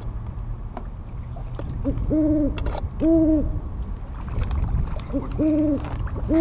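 A bird hooting: short low notes, each followed by a longer, level hoot of about half a second, repeated about four times, over a steady low rumble.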